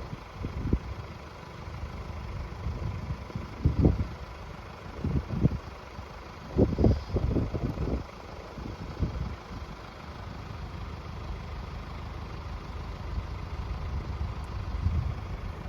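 Wind buffeting the microphone in irregular low gusts, about four times, over a steady low outdoor rumble.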